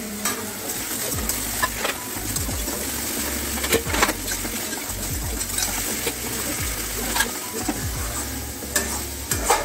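Onion and ginger-garlic paste masala sizzling in a metal kadai while being sautéed (kosha), stirred with a metal spatula. Irregular clicks and scrapes come as the spatula hits the pan.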